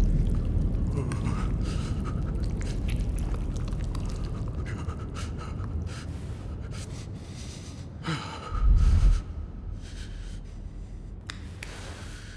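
Gasping, panting breaths over a low rumble that slowly fades, with one deep, loud thud a little after eight seconds in.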